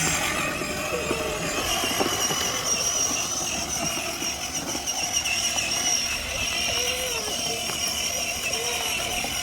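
Child's battery-powered ride-on toy tractor driving along, its electric drive motors and gearbox giving a steady high whine over the rumble of its plastic wheels rolling.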